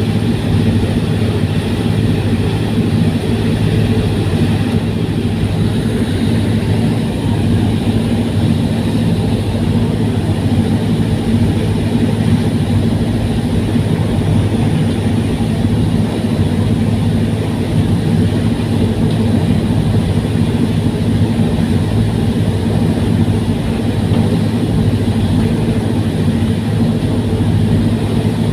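Ocean Jet fast ferry's engines running steadily under way: a loud, even low hum that does not change.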